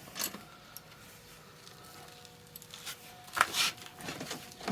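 Motorcycle parts being handled and fitted by hand: a few light clicks, then a short clatter about three and a half seconds in, followed by more small clicks.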